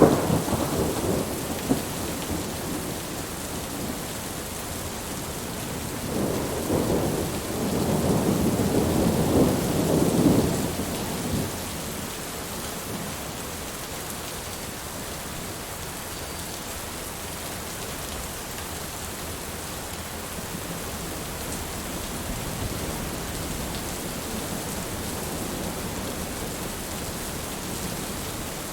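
Heavy rain falling steadily, with thunder rolling twice: a rumble right at the start and a longer, louder roll from about six to eleven seconds in.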